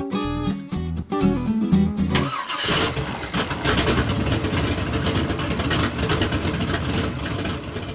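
Guitar music for about two seconds, then a car engine starts and runs loudly with a dense, rapid rattle until near the end.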